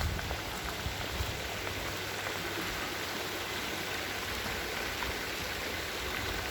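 Floodwater rushing steadily: flash-flood runoff pouring off the hillside. A little wind buffets the microphone at the very start.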